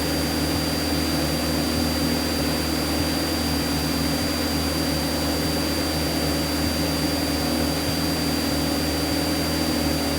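Light single-engine piston aircraft's engine and propeller running steadily at climb power just after takeoff, heard from inside the cockpit, with a thin steady high whine over the drone.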